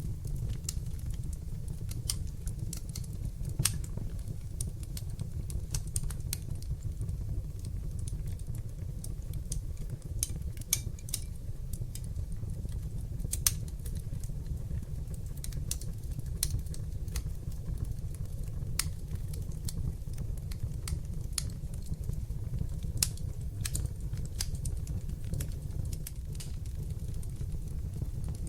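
Wood fire in a fireplace crackling, with irregular sharp pops and snaps over a steady low rumble of the flames; a handful of pops stand out louder than the rest.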